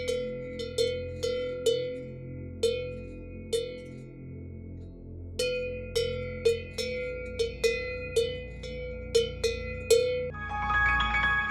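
A cowbell clanking in irregular strokes, each stroke ringing briefly, with a pause of about two seconds midway. Near the end a short chiming mallet-percussion jingle comes in.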